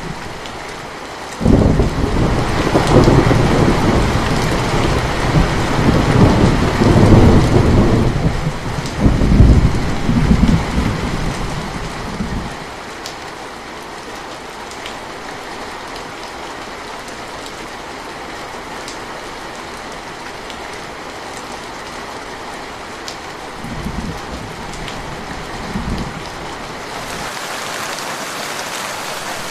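Steady rain falling, with a long rolling rumble of thunder that swells in about a second and a half in and dies away after about eleven seconds. Two short, faint low rumbles follow near the end.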